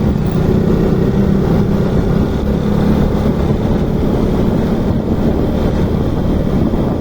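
Motorcycle engine running steadily while riding, with a dense rush of wind noise over the microphone.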